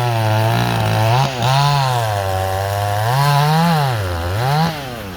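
Two-stroke chainsaw cutting into a tree trunk at full throttle, its engine note sagging under load and picking up again several times, then easing off near the end.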